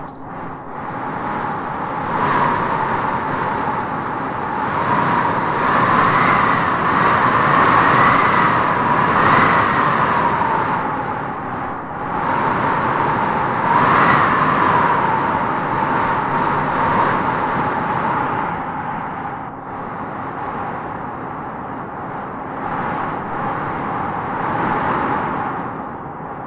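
Wind howling in gusts: a steady rushing noise with a wavering, whistling howl that rises and falls, loudest about six to ten seconds in and again around fourteen seconds.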